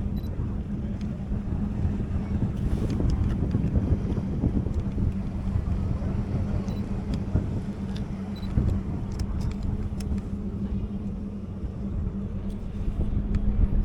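A steady, low engine rumble with a constant hum.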